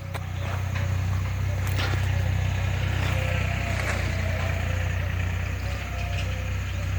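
Ford 3600 tractor engine running steadily, picking up slightly over the first second and then holding an even note.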